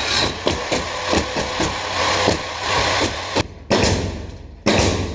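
Carpentry knocking on a plywood ceiling: a quick, irregular run of sharp knocks and taps, then two heavier thuds about a second apart, each ringing off.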